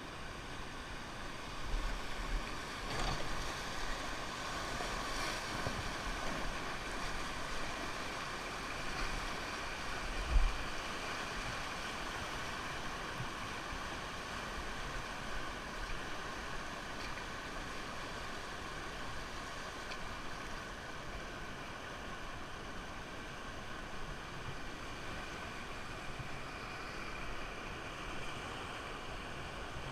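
Steady rushing of river water, heard from a raft, with a sharp low thump about ten seconds in.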